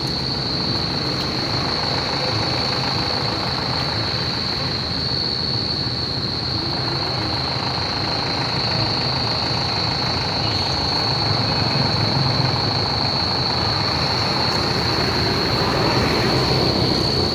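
Steady outdoor background noise: a constant high-pitched whine over a low rumble, with no sudden events.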